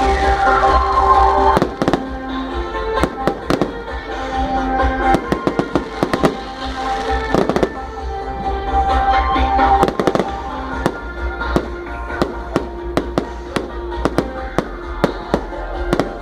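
Fireworks and firecrackers going off in many sharp, irregular cracks and pops, thickening towards the end, over music playing.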